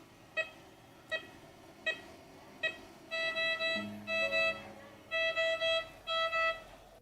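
Hospital patient monitor: a single heartbeat beep about every three-quarters of a second. From about three seconds in, an alarm sounds repeated groups of three quick beeps.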